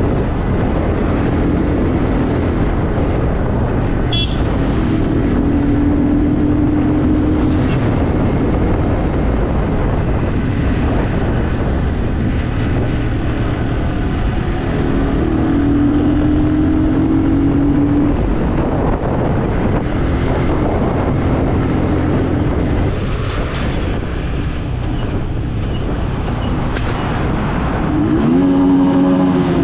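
A motor vehicle's engine runs steadily on the road under a heavy rushing noise. Near the end its pitch rises and falls as the engine speeds up and slows.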